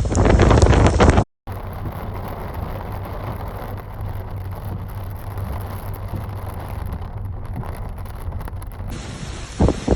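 Wind blowing on the microphone, loud and heavy in the lows, cut off abruptly about a second in. After a brief gap, a quieter steady rushing noise with a low hum carries on.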